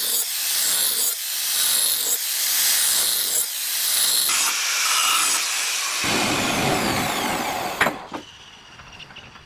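Forged knife blade being ground on a power grinder, a harsh rasp that swells and fades in repeated passes. The grinding stops with a sharp knock about eight seconds in, leaving only a few light clicks.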